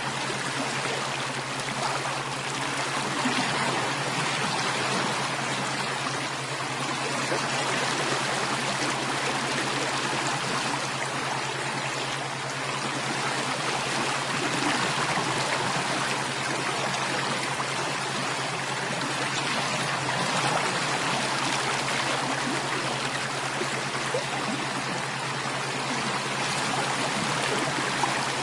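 Running water of a stream, a steady even rush with no breaks, with a faint steady low hum beneath it.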